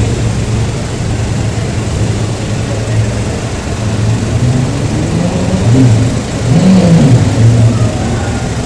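Car engine running, its revs rising and falling a few times, louder for a moment near the end.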